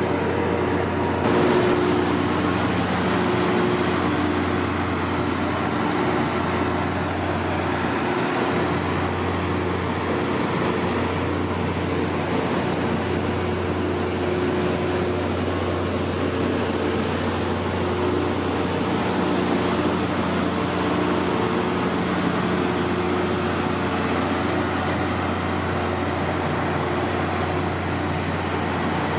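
Train locomotive running, a steady hum with a few low tones held throughout.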